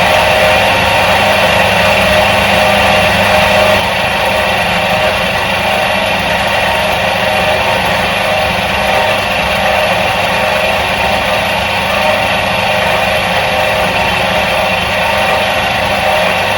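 Electric motor of a 1977 Soviet washing machine running steadily with an even hum. It drops slightly in level about four seconds in.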